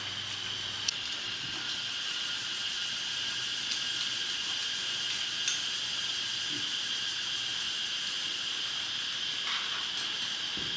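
Steady, high-pitched drone of insects in chorus, with a couple of faint clicks.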